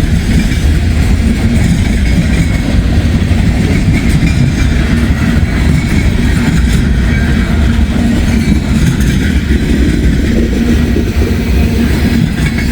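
Freight train cars rolling past, a loud steady rumble of steel wheels on the rails.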